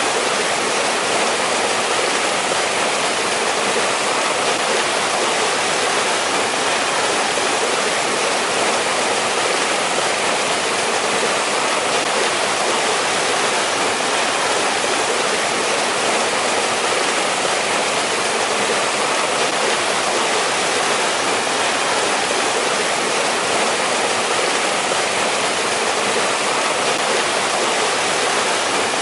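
Mountain valley stream rushing steadily, a dense even hiss of flowing water with no breaks or changes.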